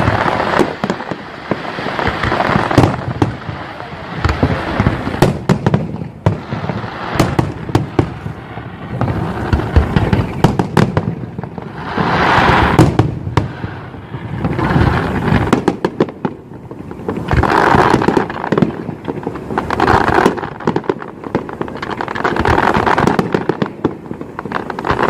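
Dense, rapid crackling and popping, swelling louder and fading back every few seconds.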